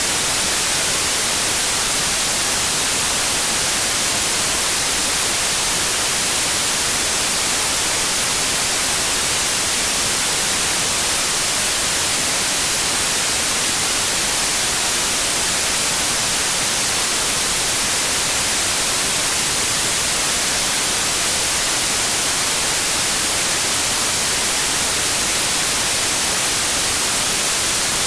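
Steady, unchanging white noise: an even hiss, strongest in the high frequencies, without any pauses or events.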